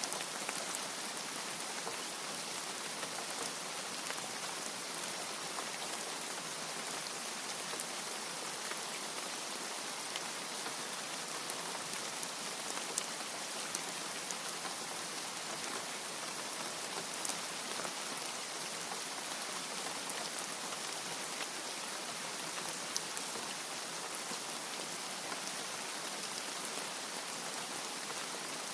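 Steady heavy rain falling, a constant hiss with scattered sharper drop hits.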